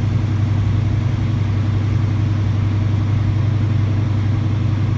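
Semi truck's diesel engine running at a steady low drone while the truck drives slowly, with no change in pitch or level.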